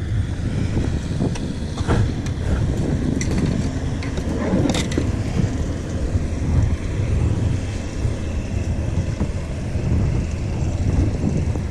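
Wind buffeting the microphone on an open kayak, a steady low rumble with water moving along the hull, and a couple of light knocks about two and five seconds in.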